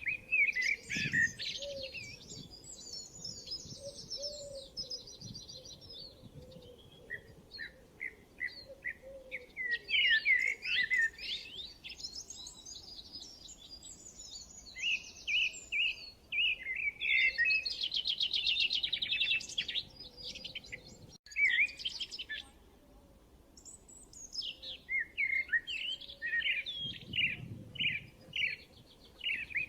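Small songbirds singing and chirping: quick repeated chirps and rapid high trills from several birds, overlapping.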